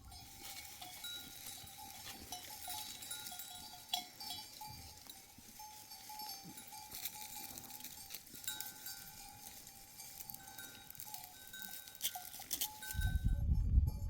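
Small bells hung on sheep and goats, clinking irregularly as the flock moves, many short ringing tones overlapping. A low rumble comes in near the end.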